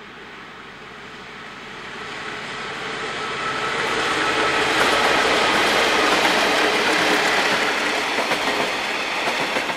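A coal train hauled by KiwiRail DX-class diesel-electric locomotives passing close by. The sound grows louder over the first few seconds as the locomotives draw level, then stays loud as the coal hopper wagons' wheels roll past on the rails.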